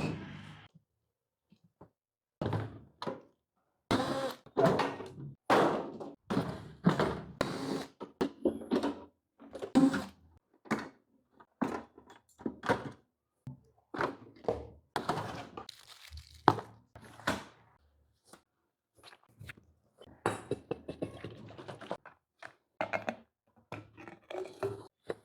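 An irregular run of thunks and knocks in clusters, with short gaps of silence between them.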